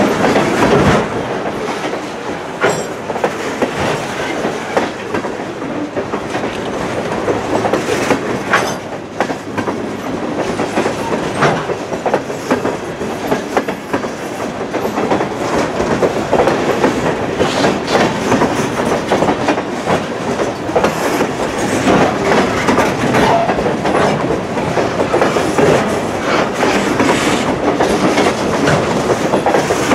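Freight train of boxcars rolling past close by: a steady rumble of steel wheels on the rails with a running clickety-clack and scattered sharper clanks.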